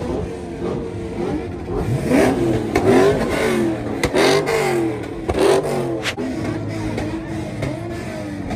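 Car engine revved several times, the pitch climbing and falling back with each rev, loudest in the middle of the stretch.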